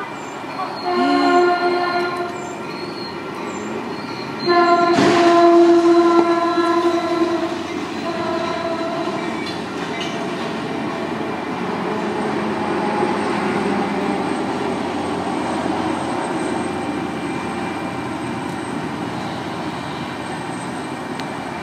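Caltrain commuter train sounding its horn: a blast a second in, a long, loudest blast about five seconds in, and a short one near eight seconds. After that comes the steady noise of the train's wheels on the rails as it passes.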